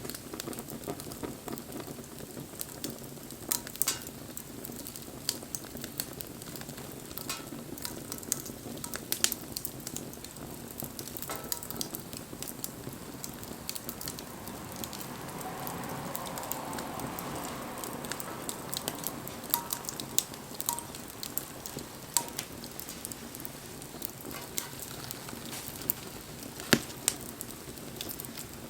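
Wood fire burning, with a steady hiss and sharp crackling pops scattered throughout. The hiss swells softly for a few seconds around the middle.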